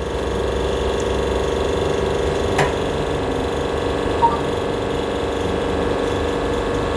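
Espresso machine pump running steadily through a shot extraction, a constant mechanical hum, with a light click about two and a half seconds in; the hum cuts off suddenly at the end as the shot is stopped.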